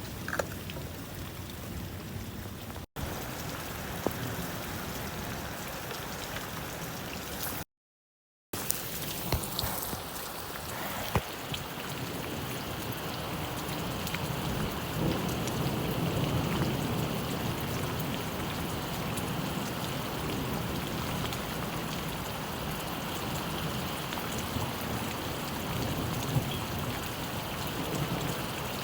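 Steady rain falling, with occasional sharper drip ticks. The sound cuts out completely for under a second about eight seconds in, then resumes.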